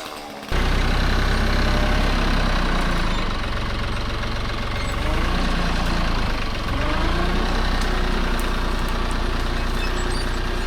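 Compact diesel tractor engine idling steadily, its pitch lifting and dropping slightly a few times.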